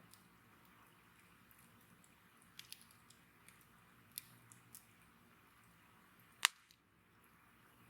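Wood bonfire crackling quietly over a faint hiss, with a few small snaps and one sharp, loud pop near the end.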